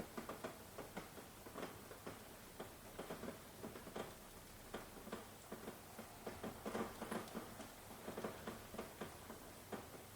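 Rain falling, heard as many irregular drips and taps, several a second, over a soft steady hiss.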